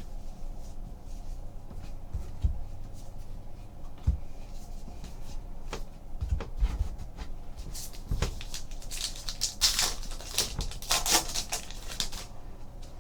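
Trading card pack wrappers crinkling and tearing, with cards being handled and a few dull knocks on the table. The crinkling and crackling is loudest over the last few seconds.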